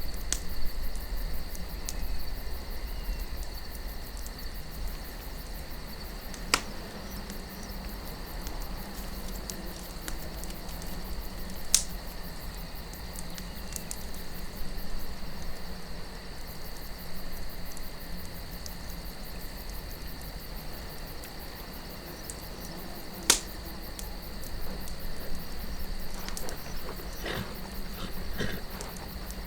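Campfire burning with a few sharp, loud pops of wood, with a run of smaller crackles near the end, over a steady chirring of crickets and a soft low wind.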